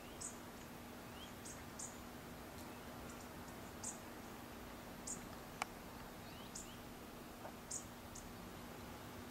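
Faint, very short high chirps of small birds, singly or in pairs about every second, over a steady hiss and a low steady hum. A single sharp click about halfway through.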